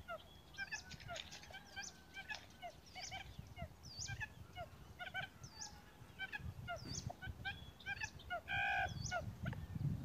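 Birds calling: many short, quick chirps in an irregular stream, with one louder call of about half a second near the end.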